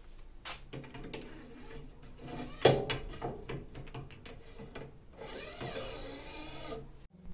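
A run of small clicks and knocks, one much sharper knock a little over two and a half seconds in, then about two seconds of rubbing scrape near the end.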